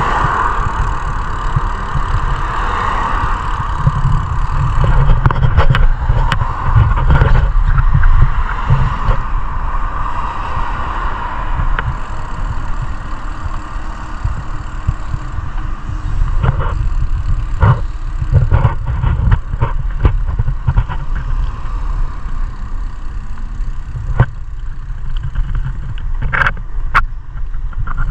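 Wind buffeting a ride-mounted action camera's microphone, making a steady low rumble, with road and traffic noise underneath and scattered clicks and knocks.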